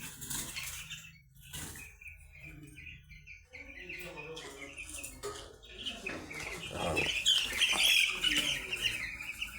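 A flock of two-week-old chicks peeping, many short high cheeps overlapping, growing louder and denser about six seconds in.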